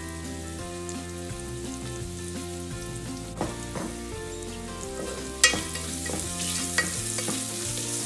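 Sliced onions and green chillies sizzling as they fry in an aluminium pot, then stirred with a wooden spoon that scrapes and knocks against the pot from about halfway; the sharpest knock comes about five seconds in and the sizzle grows louder after it. Soft background music runs underneath.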